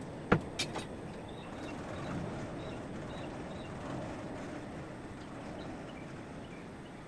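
A sharp metallic clink about a third of a second in, two lighter clinks just after, then a steady low rush as the forge heats a nail being forged into a hook.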